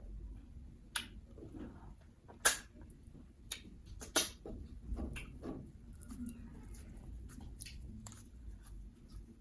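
Close-miked wet mouth sounds of eating pounded yam with ogbono and egusi soup: sticky lip smacks and chewing clicks at irregular intervals, the sharpest smack about two and a half seconds in.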